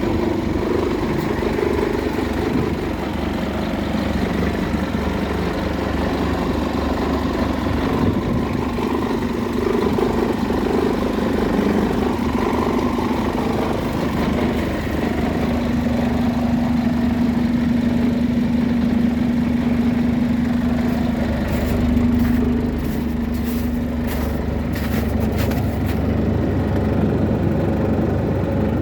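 Scania OmniLink LE bus engine running steadily, with a steady tone showing for several seconds past the middle and some short clicks near the end.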